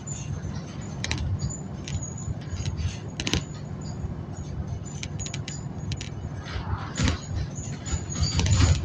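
Bus interior while moving: a steady low engine and road rumble with frequent small rattles and clinks, and a louder knock near the end.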